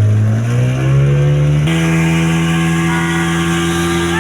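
Speedboat outboard motor revving up, its pitch rising over the first second and a half and then holding a steady, higher note as the boat gets under way. A rushing hiss joins in as it settles.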